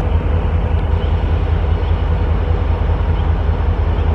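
BNSF diesel-hauled freight train rolling by, pulling a cut of cars, with a steady low rumble.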